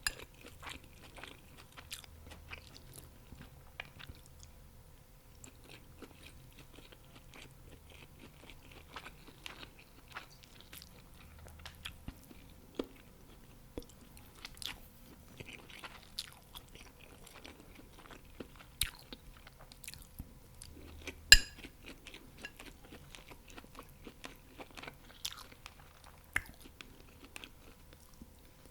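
Close-miked chewing and crunching of fried chicken wings and fried rice, with many small irregular crackles and mouth clicks, and one sharper crack about two-thirds of the way through.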